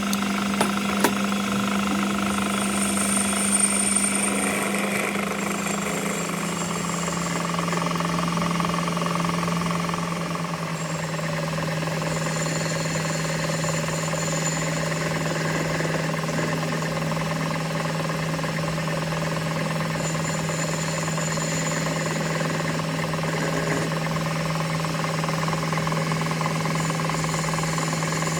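A machine motor running steadily with a constant hum, dropping slightly in pitch about six to ten seconds in, with a couple of small clicks near the start.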